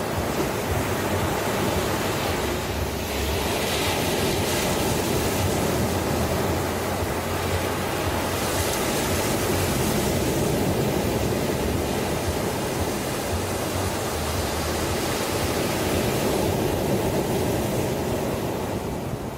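Ocean surf: a steady rush of waves washing in, with louder swells a few seconds in and again about nine seconds in, easing off near the end.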